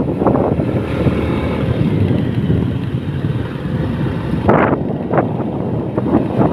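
Wind buffeting the microphone in a steady low rumble, with a couple of sharper rustling knocks about four and a half and five seconds in.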